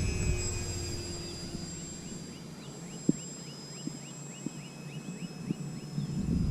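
Electric motor and propeller of a small RC airplane whining steadily at about quarter throttle on a slow pass, gradually fading. In the second half comes a quick run of short high chirps, about four a second.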